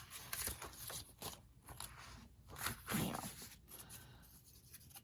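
Old glue and paper being scraped and peeled off a book cover: irregular short crunching, tearing rustles.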